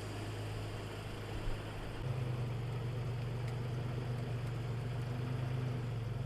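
Toyota 4Runner engine idling steadily just after starting, through a new catless exhaust with dual downpipes joined into a single Dynomax Super Turbo muffler. The note steps up slightly and gets a little louder about two seconds in.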